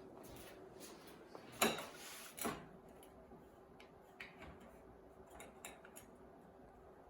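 Scattered light clicks and knocks of hands working with tools and materials, with two louder short noises about a second and a half and two and a half seconds in, over a faint steady hum.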